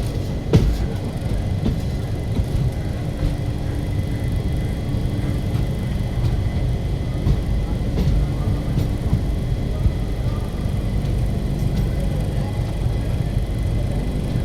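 Passenger train running on the rails: a steady low rumble, with a few sharp clacks near the start.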